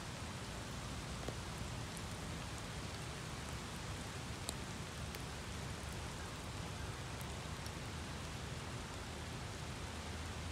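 Steady rain falling as a thunderstorm squall line moves in, an even hiss with now and then a single sharp tick of a drop striking close by.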